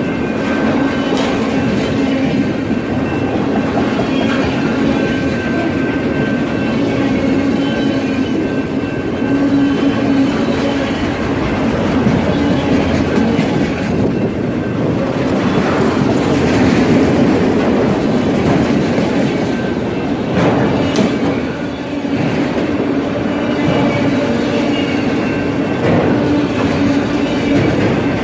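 Long string of autorack freight cars rolling past close by: a loud, steady rumble of steel wheels on the rails, with irregular clanks and a faint steady whine over it.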